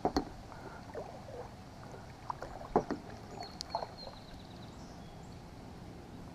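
Occasional light knocks and water sounds from a fishing kayak on the water, with several short knocks, the strongest just at the start and around three and four seconds in.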